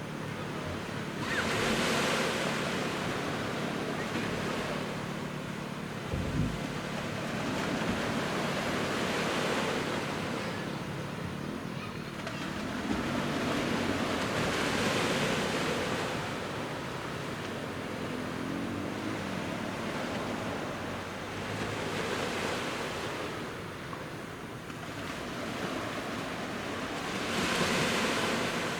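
Sea waves breaking on a beach and washing back. The surf swells up and fades about every six to seven seconds, five times. There is a brief low thump about six seconds in.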